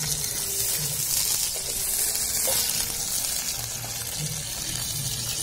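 Prawns sizzling steadily as they fry in hot oil in a steel kadai.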